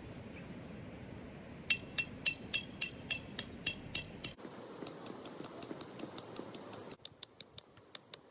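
A rapid series of sharp metallic clicks with a brief ring to each, about four a second, then a faster, higher-pitched run of clicks about halfway through.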